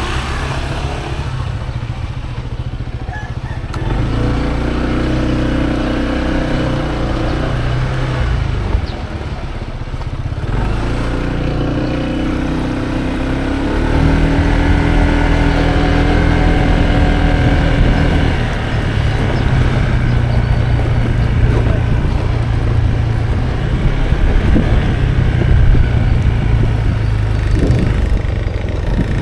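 Motorcycle engine running while riding along a road, easing off about nine seconds in, then picking up and running louder from about fourteen seconds.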